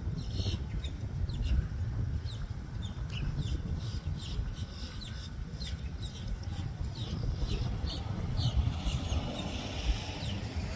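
Birds chirping in short, high calls repeated again and again, over a steady low rumble.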